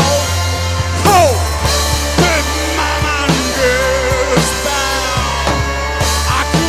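Live rock band playing an instrumental passage of a psychedelic rock song: a drum kit keeping a steady beat over a sustained bass, with a lead line of sliding, bending notes.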